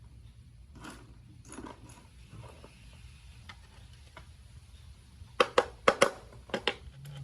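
Clicks and knocks of hand work on metal parts: light scattered clicks, then a quick run of about seven sharp knocks in the last two seconds.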